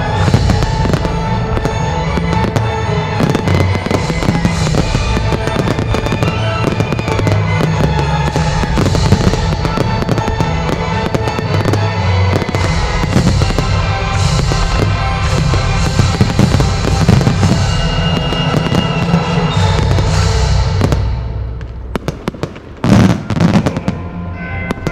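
Display fireworks bursting and crackling in a dense, rapid barrage over a music soundtrack. The barrage thins out about 21 seconds in, then a few loud bangs come near the end.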